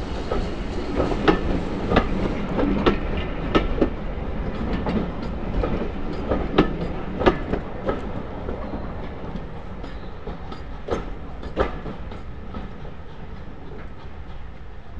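Passenger coaches of a steam-hauled train rolling past, their wheels clicking over rail joints with a steady rumble underneath. The clicks thin out after about eight seconds and the sound fades as the train draws away.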